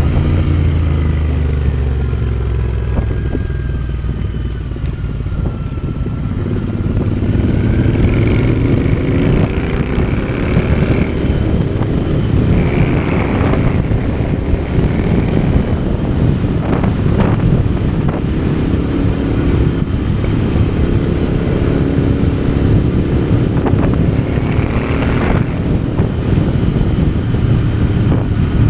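Motorcycle engine running under way, its note easing off and then building again about six seconds in, with wind rushing over the microphone.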